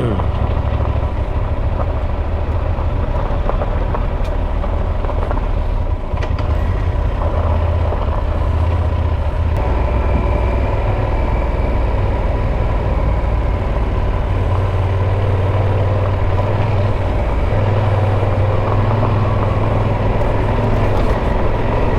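Motorcycle engine running steadily while riding, under wind and road noise. The engine note dips briefly about six seconds in.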